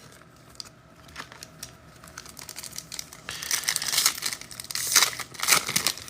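Wrapper of a pack of football trading cards being torn open and crumpled. There are faint scattered crinkles at first, then a louder run of crinkling from about halfway through.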